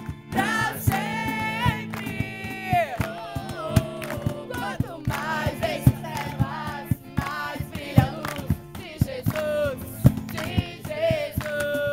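Worship music: several voices singing a worship song over instrumental accompaniment, with frequent short sharp strikes in the beat.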